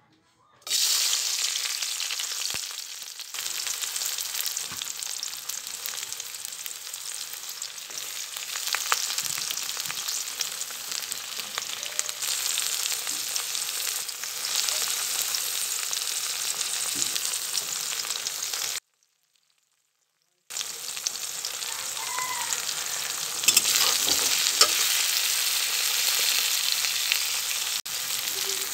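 Sliced onions and green chillies sizzling in hot oil in a metal wok, with occasional clicks and scrapes of stirring. The sizzle starts suddenly about half a second in, stops for about two seconds past the middle, then carries on.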